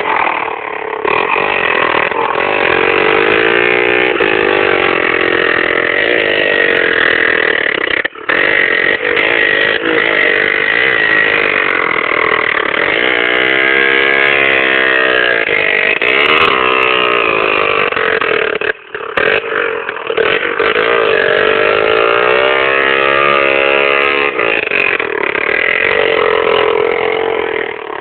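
Motorcycle engines running loud and revving, their pitch rising and falling again and again, with two very short drops in level about a third and two-thirds of the way through.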